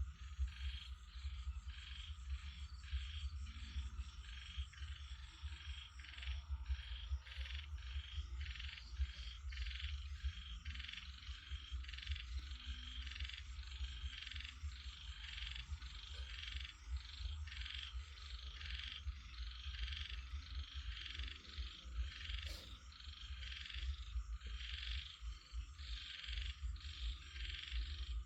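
A chorus of frogs croaking without pause, short calls repeating several times a second and overlapping, over a steady low rumble.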